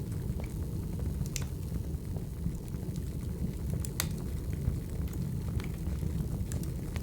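Wood fire burning: a steady low rumble with scattered sharp crackles and pops, the loudest about four seconds in.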